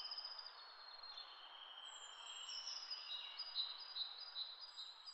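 Faint birdsong over a steady outdoor hiss: a few high, thin warbling phrases and trills.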